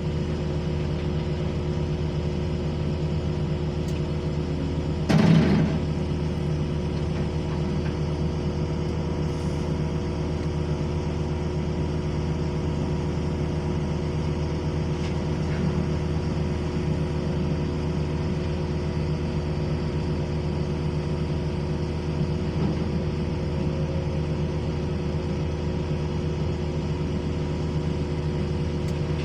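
Diesel engine of a Sumitomo SH210 hydraulic excavator running steadily, with one loud, short burst of noise about five seconds in.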